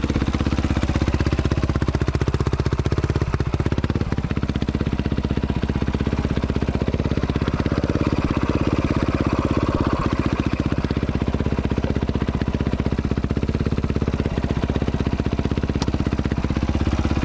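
An engine running steadily at an even speed, with a fast regular firing pulse and no revving.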